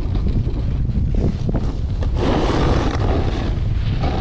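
Wind buffeting the microphone in a heavy low rumble, with a louder hissing rush from about two seconds in.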